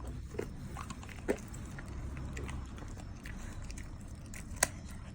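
Dog chewing a dried kangaroo Achilles tendon: scattered crunches and clicks of teeth on the hard chew, with one sharp crack near the end.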